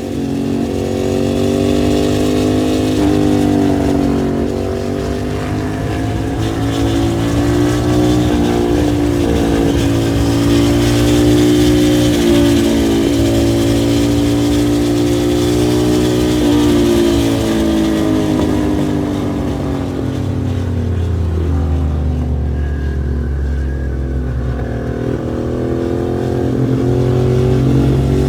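Ducati V-twin engine of a custom cafe racer motorcycle running hard under way, its note rising and falling as it is ridden. It drops to a lower pitch about 20 seconds in and climbs again near the end.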